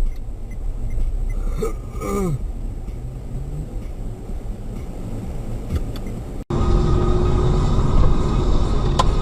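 Low steady rumble of a car driving. About two-thirds of the way through it cuts off abruptly into a louder rumble with a steady hum, and a sharp click comes near the end.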